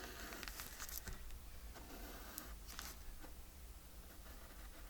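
Faint handling of paper and envelopes: soft rustling with a few light taps and clicks scattered through.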